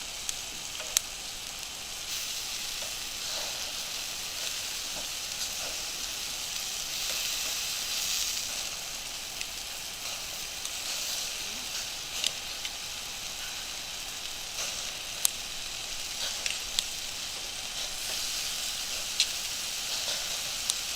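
Meat sizzling over a wood fire: a steady hiss with a sharp pop every few seconds.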